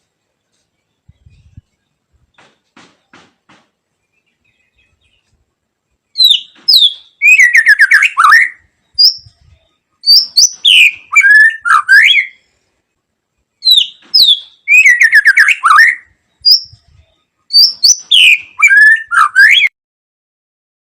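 White-rumped shama singing loudly: two phrases of rapid sliding whistles and trills, the second closely repeating the first, starting about six seconds in after a stretch of near quiet.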